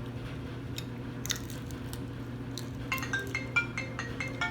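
A phone ringtone of short, bright marimba-like notes, stepping up and down in a repeating melody, starts about three seconds in. Under it runs the steady hum of a clothes dryer, and a few sharp clinks of shell or cutlery come earlier.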